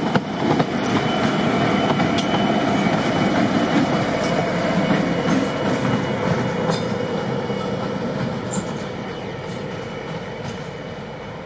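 Train running along the rails, with a few sharp clicks from the wheels. The sound is loudest early on and fades steadily over the last few seconds.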